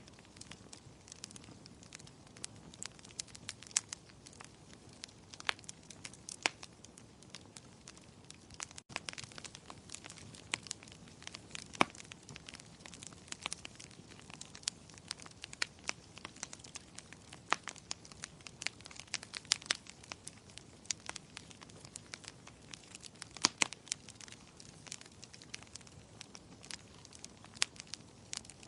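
Wood fire crackling in a fireplace: irregular sharp pops and snaps over a soft, steady hiss, with a few louder snaps scattered through.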